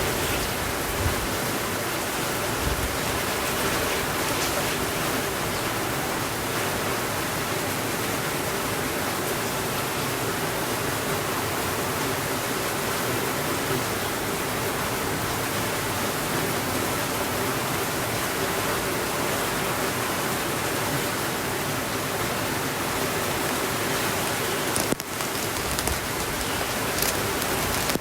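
Heavy rain on a window, a steady even hiss, with a few faint crackles from a fireplace now and then.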